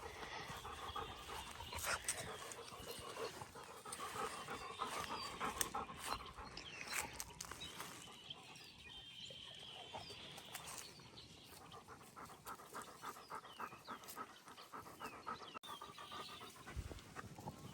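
A dog panting, faint.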